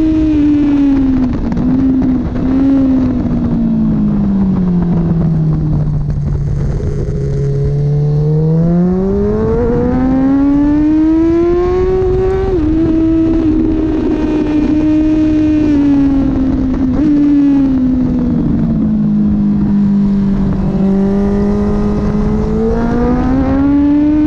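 Kawasaki Ninja ZX10R race bike's inline-four engine running hard on track. Its pitch drops steeply as the bike slows about five seconds in, then climbs under acceleration with a gear change about twelve seconds in. It eases off slowly and builds again near the end.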